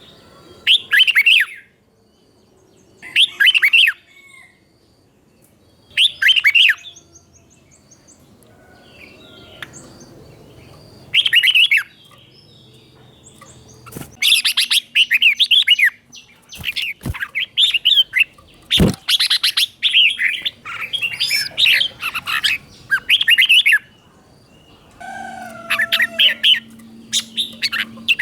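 Red-whiskered bulbul singing its bright, warbling phrases: at first short separate phrases a few seconds apart, then continuous rapid singing from about halfway through. This is a 'teacher bird' song for young bulbuls to copy. A few sharp knocks come in the middle.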